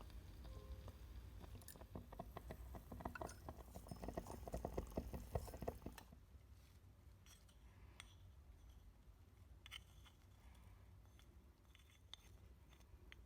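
Tiny utensils clicking and scraping on miniature cookware, a dense run of light clicks for about six seconds, then only a few scattered clicks.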